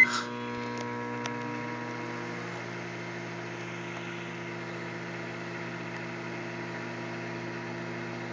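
Microwave oven running with a steady hum, just after being started, with a couple of light clicks in the first second and a half.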